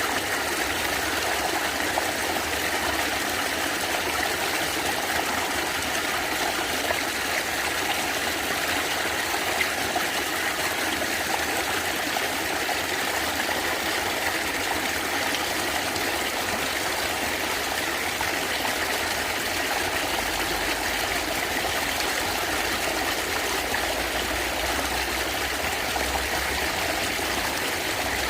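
Natural running water gurgling and flowing steadily, like a stream over stones.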